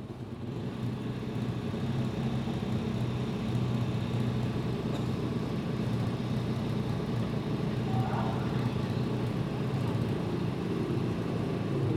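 Racing motorcycle engine noise: a steady low drone that builds over the first couple of seconds and then holds, with no revving.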